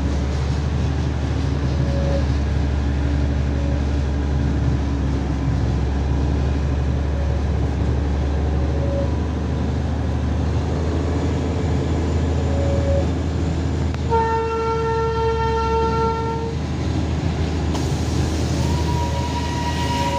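Narrow-gauge Darjeeling Himalayan Railway diesel-hauled train running, with a steady low rumble. A loud train horn sounds for about two and a half seconds about fourteen seconds in, and another horn tone starts near the end.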